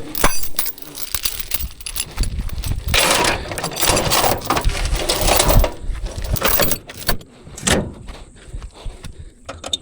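Irregular metallic clinking and rattling with scattered knocks and a low rumble, busiest in the middle and thinning out near the end.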